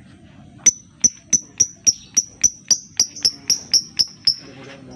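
Lovebird giving its 'ngetik' ticking call: a run of about fourteen short, sharp, high ticks at three to four a second, stopping shortly before the end.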